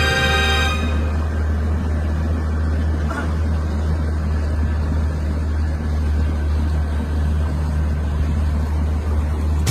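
A motor running steadily with a low drone and a noisy haze; background music fades out about a second in.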